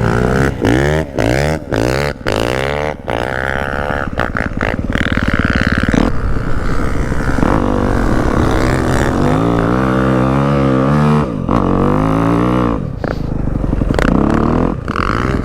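Dirt bike engine revving: quick throttle blips rising and falling in pitch at first, then held at higher revs with swells up and down as it rides.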